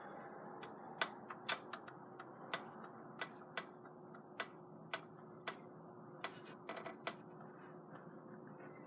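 Sharp clicks at an uneven pace, about fifteen in all, over a steady faint hum with a thin low tone running under it.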